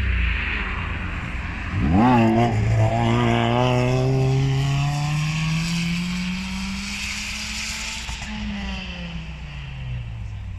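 Renault Twingo's engine revving hard as the car accelerates along the sprint course. The revs jump suddenly about two seconds in, then the engine note climbs steadily for several seconds and falls away near the end.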